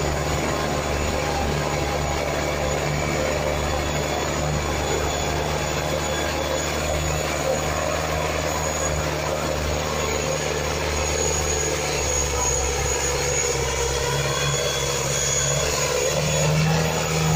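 Preet 6049 tractor's diesel engine running hard and steadily, rising in pitch and getting louder near the end.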